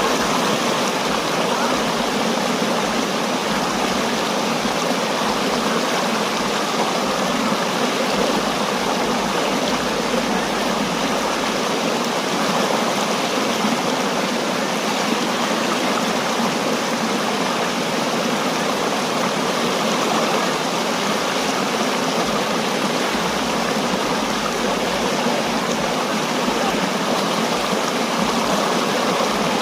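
Waterfall water rushing over rocks, a loud steady rush with no change.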